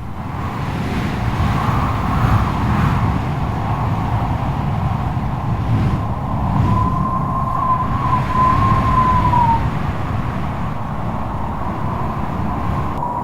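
Strong wind howling in heavy gusts with a deep rumble, and a high wavering whistle rising out of it about six and a half seconds in and fading out about three seconds later.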